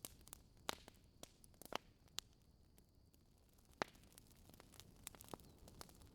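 Wood fire crackling in a fireplace: irregular sharp pops and snaps from the burning logs over a faint low rumble, the loudest pop nearly four seconds in.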